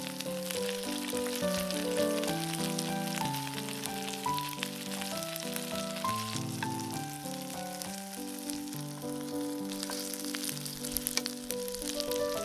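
Napa cabbage rolls frying in oil in a pan, a steady fine sizzle and crackle, over light background music.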